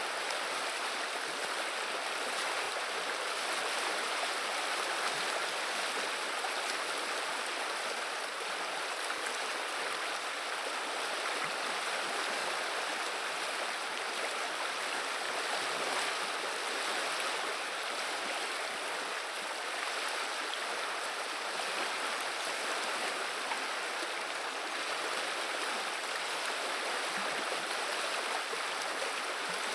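River water running and babbling, a steady even rush with no breaks.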